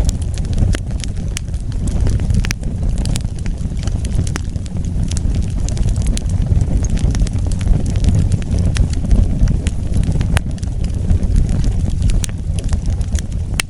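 Wood fire burning: a steady low rumble of the flames with frequent sharp crackles and pops at irregular intervals.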